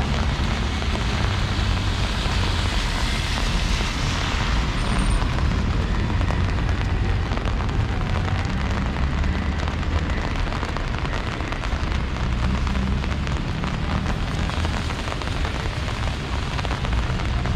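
Steady hiss of rain, with gusts of wind buffeting the microphone in low, uneven rumbles.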